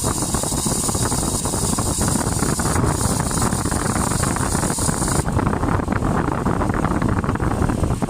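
UAZ-2206 van's engine running with an abnormal noise from the engine bay, which the owner traced to a belt pulley whose bearing had gone dry of grease. A high-pitched noise rides over the engine until about five seconds in, then stops.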